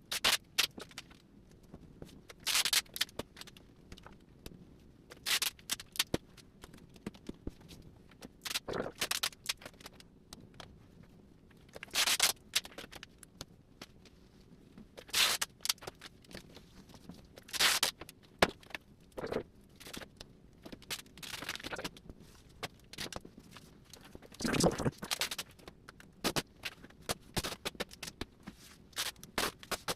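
Duct tape being pulled off the roll in short, loud rips, about a dozen of them a couple of seconds apart, with lighter scraping and handling noise between.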